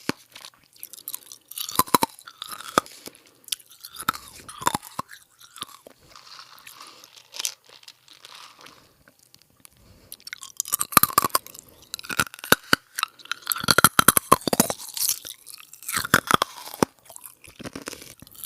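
Close-up crisp crunching and crackling in irregular bursts, loudest about two thirds of the way through.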